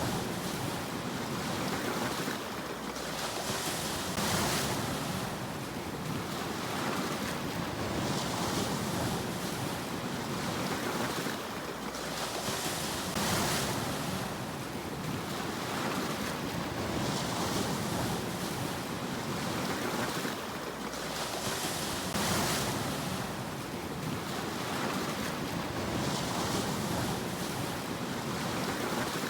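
Sea waves breaking and washing up on a shore, a steady rushing that swells and eases in repeating surges, the biggest about every nine seconds.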